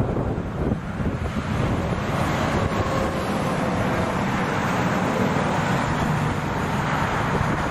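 Heavy truck driving past on the road, its engine and tyre noise building over the first second or so and then holding steady, with wind buffeting the microphone.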